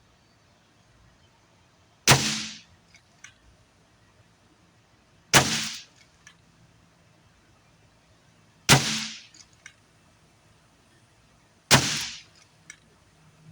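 Four shots from a .25 calibre Air Venturi Avenger PCP air rifle, about three seconds apart, each a sharp crack with a short decaying tail. A faint click or two follows about a second after each shot.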